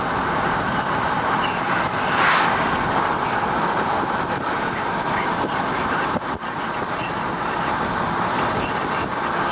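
Steady road and engine noise of a moving vehicle heard from inside, with a brief louder swell about two seconds in.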